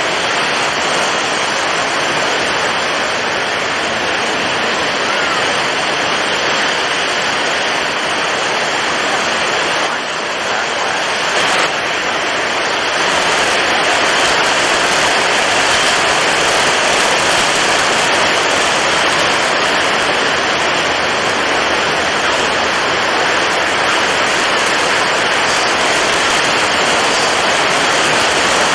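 Storm at sea: strong wind blowing and waves breaking, heard as a steady loud rush of noise. It dips briefly about ten seconds in and is a little louder from about thirteen seconds on.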